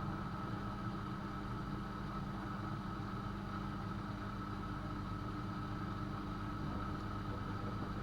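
AEG Öko-Lavamat 72520 washing machine running mid-cycle with a steady mechanical hum.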